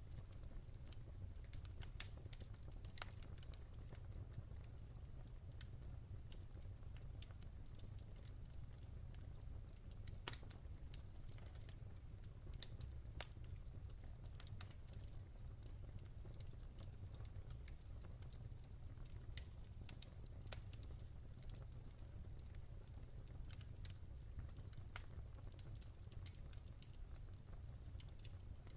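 Campfire crackling: burning wood giving irregular sharp pops and snaps over a steady low rumble, with one louder pop about two seconds in.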